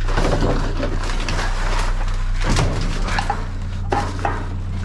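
A small pickup truck's engine idling with a steady low hum, under irregular rustling and a few knocks from items being handled.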